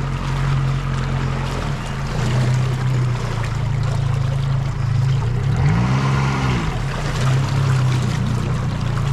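Boat motor running steadily, with a brief rev up and back down about six seconds in, over the wash of water around the hull.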